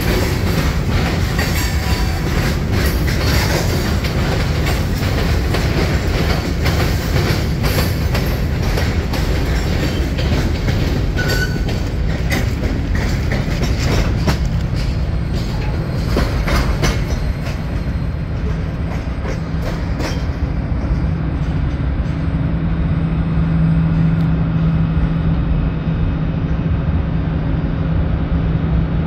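Freight train cars rolling past at close range, wheels clacking over the track with a brief wheel squeal about a third of the way in. After about two-thirds of the way, the clatter gives way to a steadier low hum.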